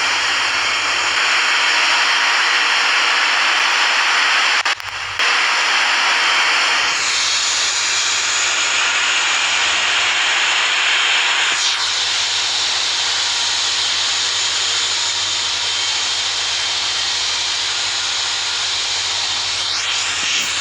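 Steady jet aircraft noise: a loud rushing hiss with a high whine. It briefly drops out about five seconds in, and the whine shifts in pitch about seven and twelve seconds in.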